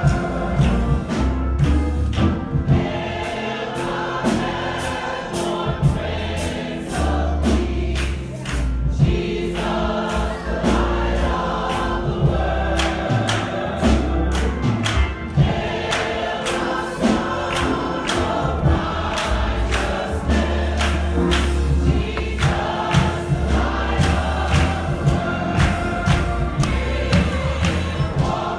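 A church congregation singing a gospel song together, backed by bass notes and a steady beat of sharp percussive hits.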